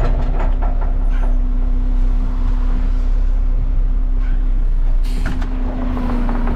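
Garbage truck's diesel engine running steadily, with a short hiss of air about five seconds in.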